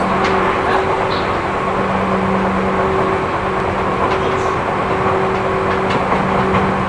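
Running noise inside a Seibu New 2000 series electric commuter train under way: a steady rumble of wheels on rail with a constant low hum from the running gear.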